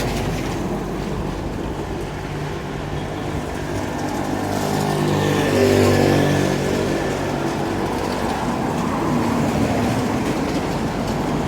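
A car drives past close by, its engine and tyre noise swelling to a peak about halfway through and then fading, over a steady engine hum.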